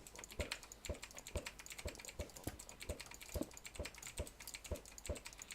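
Dense rapid clicking with a soft knock about twice a second, in an even rhythm.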